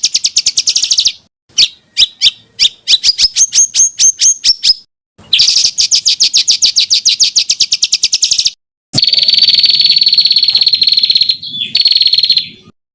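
Songbird song from a masteran tutoring recording for competition songbirds. It runs as a rapid trill of clipped notes, then a run of separate sharp notes that quickens, another rapid trill, and a buzzy rattling phrase over a steady high whistle. The phrases break off suddenly into full silence between them.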